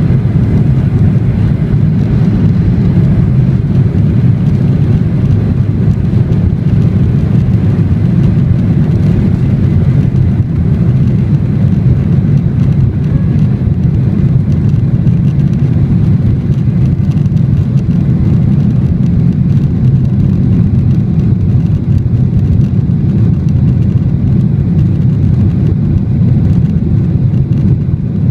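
Jet airliner at take-off, a loud, steady low rumble of engines and airflow.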